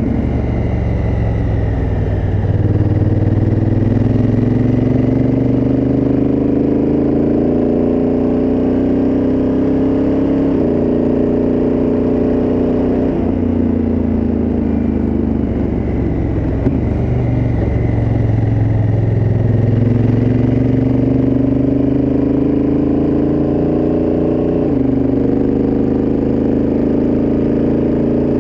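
Honda Africa Twin CRF1000L's parallel-twin engine through its stock exhaust, under way: the revs climb steadily, drop suddenly a couple of times at shifts, and sag then recover in the middle as the rider eases off and reaccelerates.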